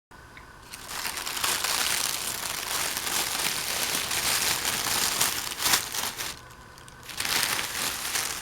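Subway sandwich wrapping crinkling as it is unwrapped, in a long stretch of rustling with a pause of about a second near the end before the crinkling resumes.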